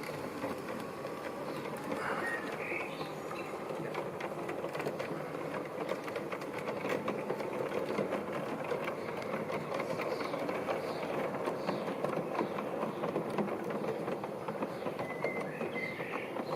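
G-scale model diesel locomotive hauling freight wagons along garden track: a small electric motor's buzz with rapid clicking of the wheels on the rails, growing louder toward the middle as the train comes close and easing off near the end.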